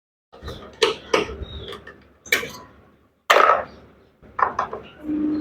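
Irregular metallic clinks, clanks and scrapes of hand tools working the bolts that hold a top-load washing machine's gearbox. A short steady hum comes in just before the end.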